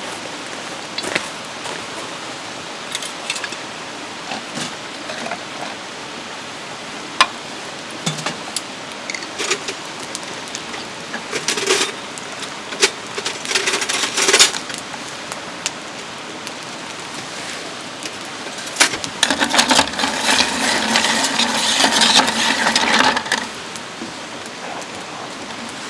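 Scattered clinks of glass and bottle, then about four seconds of liquid pouring into a glass, as a vodka highball is mixed. A steady rush of a mountain stream runs underneath.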